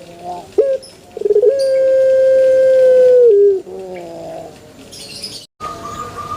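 Puter pelung (ringneck dove) cooing: a few short notes and a quick rolling trill, then one long, loud, steady drawn-out coo of nearly two seconds that drops in pitch as it ends.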